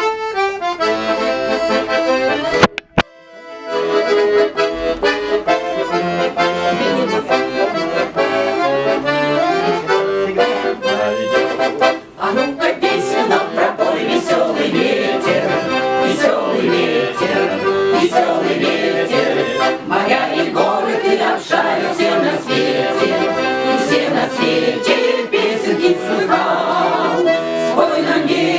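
Accordion playing a brisk instrumental introduction to a song, with a short break and a click about three seconds in.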